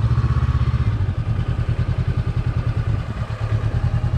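Vehicle engine running while driving: a steady low rumble with a fast, even pulsing beat and road noise.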